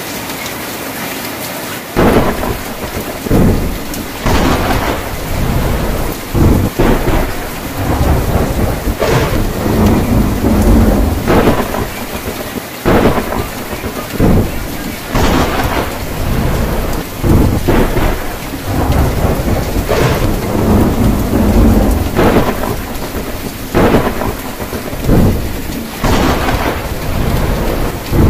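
Steady rain drumming on a tin roof, joined about two seconds in by thunder: repeated loud cracks and low rumbles that come every second or two and keep going.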